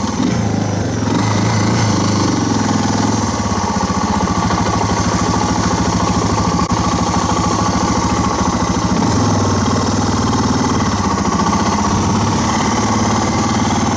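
Single-cylinder four-stroke dirt bike engine running under way, its pulsing note rising and falling a few times as the revs change.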